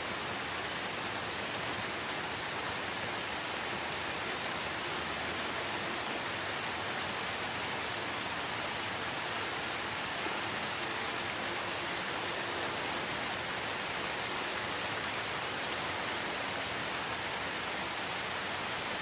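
Steady, even rainfall in a rainforest, falling on leaves and other surfaces, with no distinct drops or thunder standing out.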